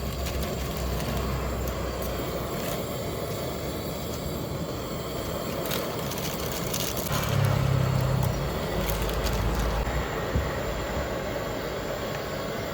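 Steady street noise with a vehicle's engine swelling as it passes about seven seconds in, and scattered light clicks throughout.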